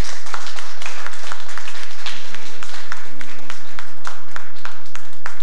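Audience applauding a song: dense, irregular hand clapping with a few voices in the crowd, tailing off near the end.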